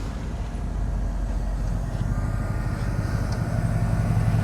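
A car's engine running at low speed, a steady low rumble that grows louder as the car approaches.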